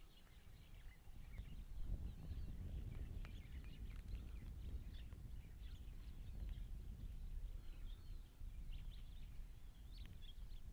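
Outdoor ambience of small birds chirping and twittering in many short calls, over a steady low rumble.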